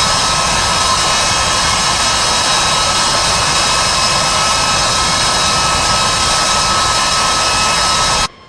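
Jet aircraft engines running loud and steady, a dense rush with a fixed high-pitched turbine whine over it, cutting off suddenly near the end.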